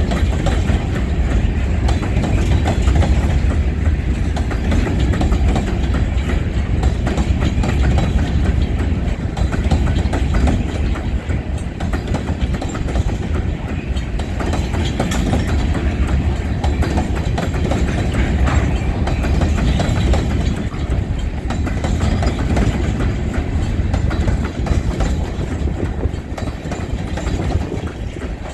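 Covered hopper cars of a freight train rolling past close by: a steady, loud rumble of steel wheels on the rails with many small clicks and rattles.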